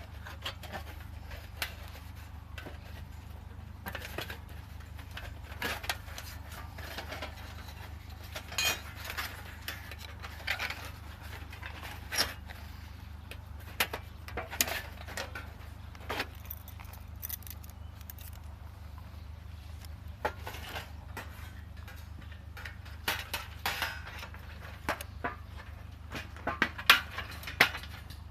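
Thin metal plates of a folding pocket wood stove clinking and rattling as they are handled, in scattered irregular clicks over a steady low hum.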